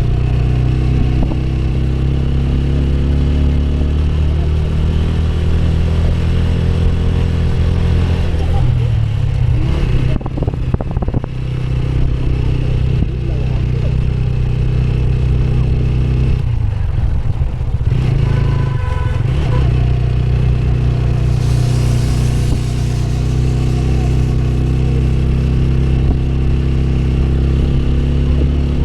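Motorcycle engine running steadily under way, its note dipping and shifting twice as the throttle eases and picks up again. A brief hiss comes in a little after halfway.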